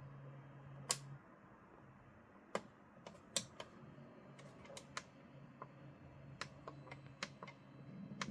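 Irregular sharp clicks and taps, like hard printed plastic pieces being handled and set down, over a low steady hum.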